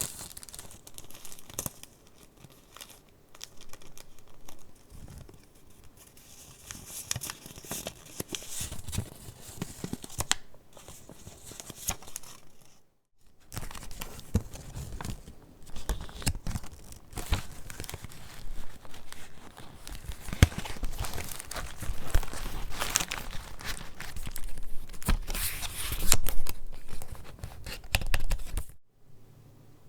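Paper rustling and crinkling as the pages of a handmade junk journal are handled and turned, in irregular scraping bursts. There is a short pause a little before halfway, and the sound stops suddenly near the end.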